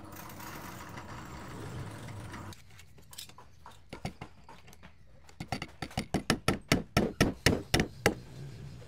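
A run of sharp knocks or strikes: a few scattered at first, then a quick even series of about four a second, over a low steady hum at the start.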